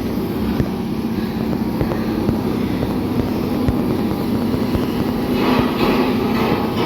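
Class 66 diesel locomotive engine idling with a steady low drone. A rougher crackling noise joins about five seconds in.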